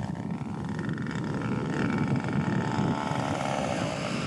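Airplane engine running as the plane flies by, its pitch falling slightly near the end, with wind noise on the microphone.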